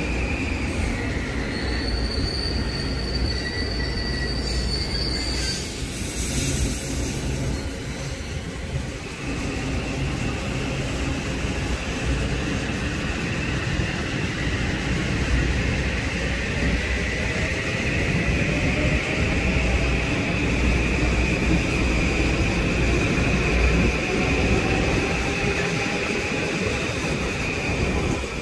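Metro-North M8 electric multiple-unit train running past with a steady rumble, its wheels giving a continuous high-pitched squeal. In the second half a whine rises steadily in pitch.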